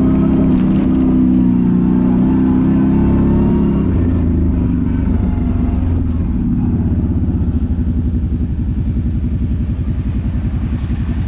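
ATV engine running steadily, then dropping in pitch about halfway through to a low, pulsing idle.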